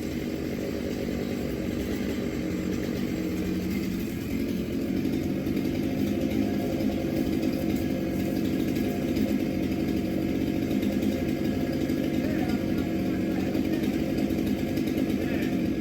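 Chainsaw engine running at a steady speed, growing a little louder about four or five seconds in.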